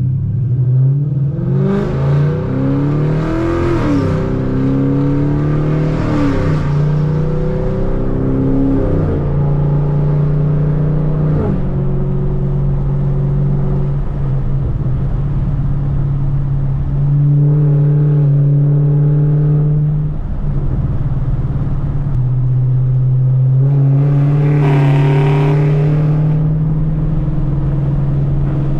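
Straight-piped Chevrolet Camaro V8 accelerating hard through the gears: the exhaust note climbs in pitch and drops back at each of about four upshifts in the first dozen seconds. It then drones at a steady pitch, swelling louder twice.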